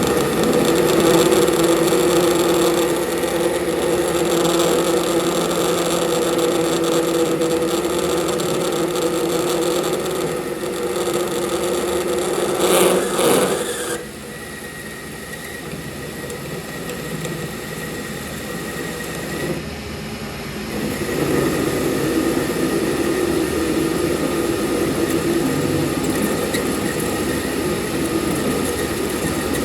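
A motor-driven workshop machine running with a steady hum. About thirteen seconds in there is a brief, louder, harsh burst; the sound then drops quieter for several seconds before rising again.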